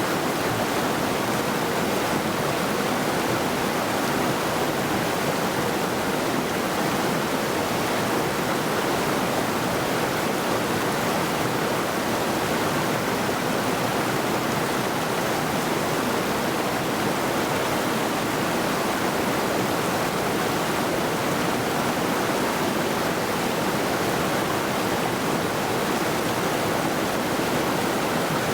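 A mountain river rushing steadily over rocks, a constant even rush of water.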